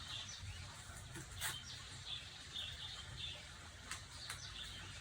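Small birds chirping in short repeated calls, with a couple of faint clicks.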